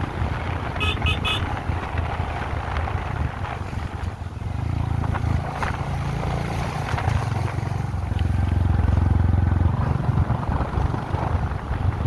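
Vehicle engine running while driving, with the road and air noise around it; it gets louder about halfway through and again near the end. Three short high beeps sound about a second in.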